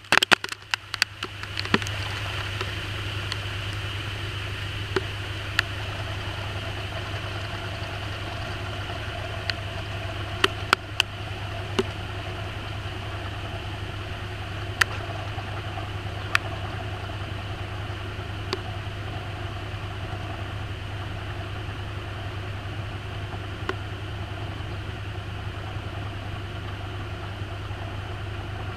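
Maytag washing machine running, heard from inside the tub: after a brief patter of rapid clicks, a steady low motor hum sets in about a second and a half in and holds, with a few scattered sharp ticks.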